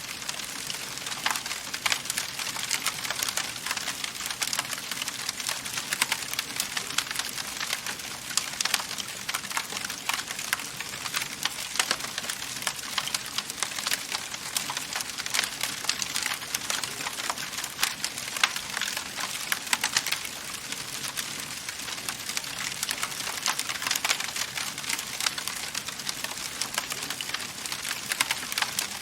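Wood fire in a fireplace crackling: a dense, constant stream of small sharp pops and snaps over a soft hiss.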